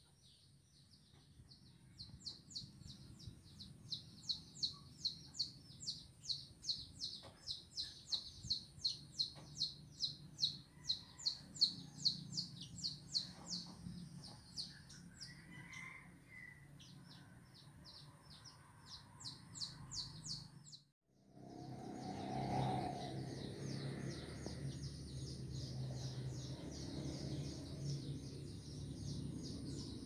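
A bird calling with a fast run of sharp, high repeated chirps, about two a second. The chirps break off suddenly about two-thirds through, and fainter chirping carries on afterwards.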